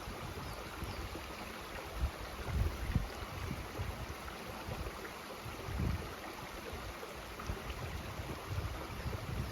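Mountain stream flowing with a steady rush, with gusts of wind buffeting the microphone as uneven low rumbles.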